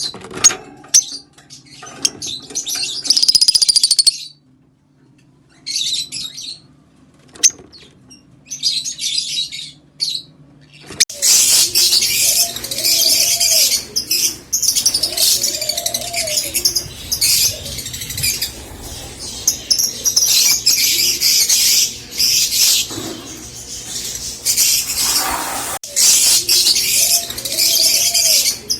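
Rosy-faced lovebirds chirping: scattered shrill calls with short pauses at first, then, about eleven seconds in, dense and continuous high-pitched chattering.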